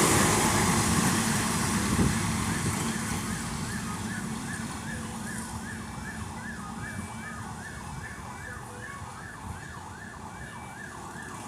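A VLT light-rail train's running noise fading as it moves away. From about two and a half seconds in, a siren rises and falls rapidly, about three sweeps a second.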